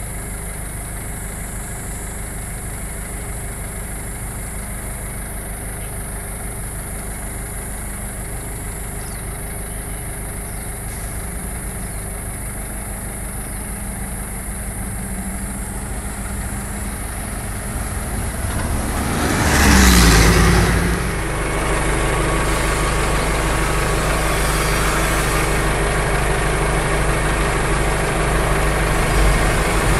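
Power drill motor running steadily while boring through the wall for a drain pipe. About twenty seconds in it surges loudly and its pitch drops, as under heavier load, then runs on steadily and a little louder.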